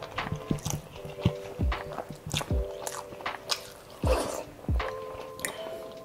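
Close-miked eating sounds: wet chewing, smacking and sharp mouth clicks as a man eats a rice-and-curry meal by hand, over soft background music with held notes and low thumps.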